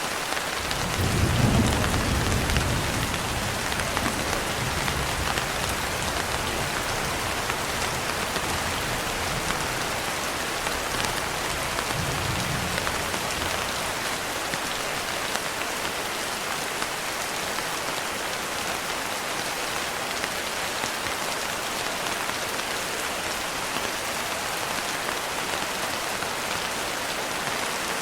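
Steady rain hissing throughout. About a second in, a long low rumble of thunder rolls in, swells again briefly near the middle and fades out.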